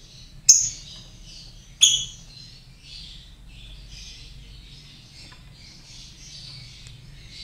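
Lovebirds chirping in a continuous high-pitched chatter, with two loud, sharp squawks about half a second and two seconds in.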